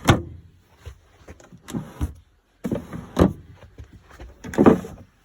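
Cabin cupboard doors and storage compartments being opened and shut: four loud knocks with smaller clicks and rattles between them.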